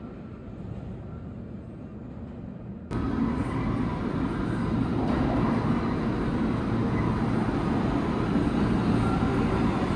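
Subway station rumble, then about three seconds in a sudden jump to a louder, steady rumble of a New York City subway train running through the station.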